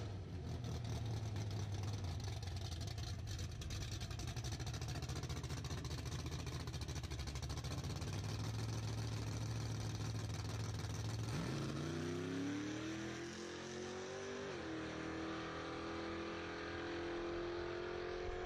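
Drag car's engine rumbling steadily at the starting line. About eleven seconds in it launches: the engine note climbs, drops suddenly at a gear shift about three seconds later, then climbs again as the car accelerates away down the strip.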